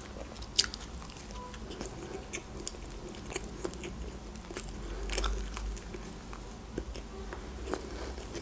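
Close-miked chewing of a bite of burger bun: soft, wet mouth sounds with scattered small clicks and smacks, one sharper click about half a second in.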